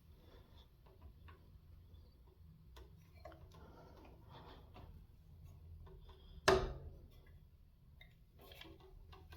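Scattered light clicks and rustles from handling a vintage all-metal electric fan, with one sharp knock about six and a half seconds in, over a faint low steady hum.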